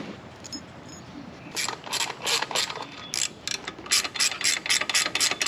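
Ratchet wrench clicking in short back-and-forth strokes, tightening the bolts that hold the mower engine's cowl, starting about a second and a half in.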